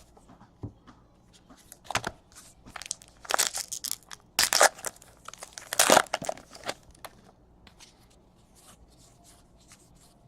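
Baseball card pack wrappers being torn open and crinkled: several short, sharp tearing and rustling rasps in the middle of the stretch, then only faint handling noises.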